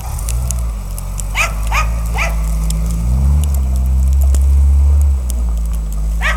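Car engine running under load as the hatchback ploughs through deep snow, revving up about three seconds in and holding there for a couple of seconds before easing off. A dog barks three times in quick succession about a second and a half in, and once more at the very end.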